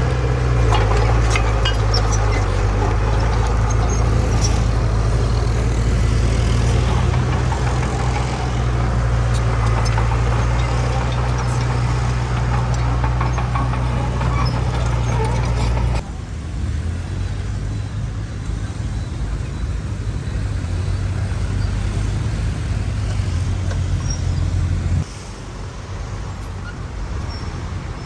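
Diesel engines of heavy earthmoving machinery running under load, a deep steady drone with a rough mechanical clatter over it. About halfway through the sound cuts abruptly to a quieter engine note, which steps down again near the end.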